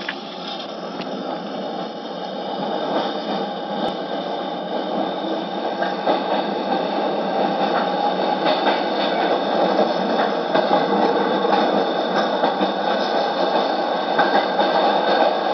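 Running noise of a Keisei 3200-series electric train, a six-motor-car set with Mitsubishi MB-3097-C3 traction motors on WN drive. It is a continuous rumble of wheels and running gear that grows steadily louder.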